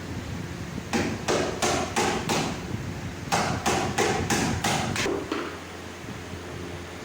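Carpenter's hammer striking, two quick runs of about five and six even blows, roughly three a second, with a short pause between them.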